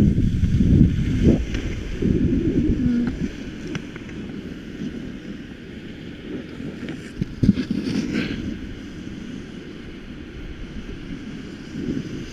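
Wind buffeting the camera's microphone while skiing, a low rumble that is strongest for the first few seconds and then eases, with a short click about halfway through.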